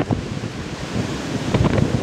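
Wind buffeting the microphone: a rough, gusty rushing noise, with a sharp gust right at the start.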